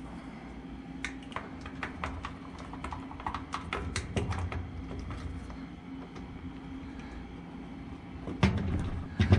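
Quick plastic clicks and taps as a washing machine's lid-switch bezel is worked and pressed into place by hand, with two heavier knocks near the end.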